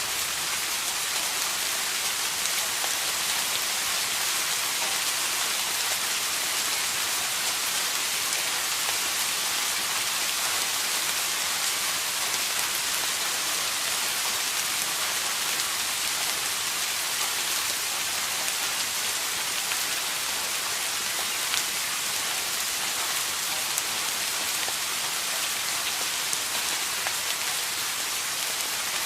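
Steady rain falling on a surface, an even hiss with scattered pattering drops.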